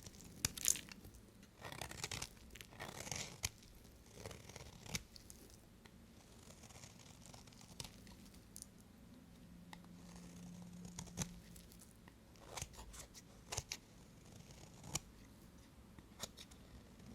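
Knife cutting through dry bar soap: crisp scraping cuts and sharp clicks, bunched in the first few seconds and again near the end, with a quieter stretch between.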